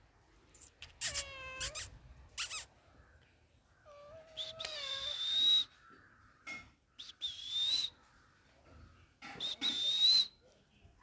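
A cat meowing: one drawn-out meow about a second in, followed by a short call and then three high, squeaky calls spaced a couple of seconds apart.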